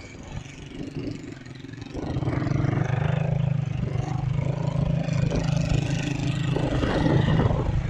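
Motorcycle engine of a passenger tricycle running under way, becoming louder and settling into a steady drone about two seconds in, over road noise.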